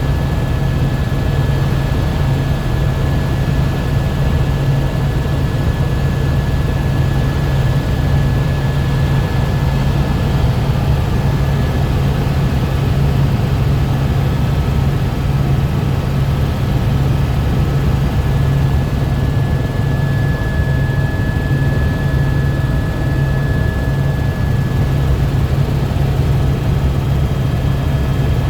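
Tour helicopter in flight, heard from inside the cabin: a loud, steady low drone from the rotor and engine, with a thin high whine held over it.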